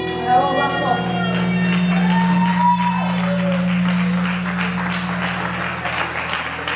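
A live rock band's final chord rings out with a held low note that fades away about five and a half seconds in, while the audience claps, the clapping getting denser near the end.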